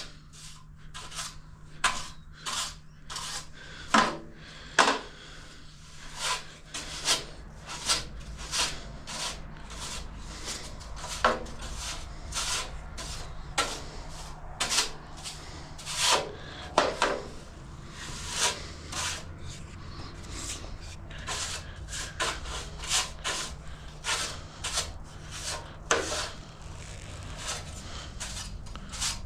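A push broom sweeping a shop floor: repeated, irregular brushing strokes of the bristles, roughly one or two a second.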